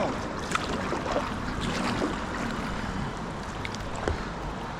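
Kayak paddling on a moving river: paddle strokes in the water over a steady rush of current, with a couple of light knocks.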